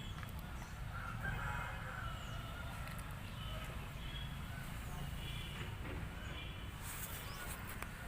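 An Aseel rooster crows once, about a second in, among short clucking calls from chickens, over a steady low rumble.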